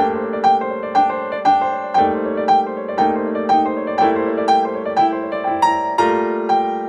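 Background piano music: a gentle melody of evenly paced notes, about two a second, over held chords.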